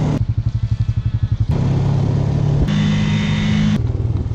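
ATV engine running while being ridden: a pulsing low engine note at first, then steadier, with the revs higher for about a second before dropping back near the end.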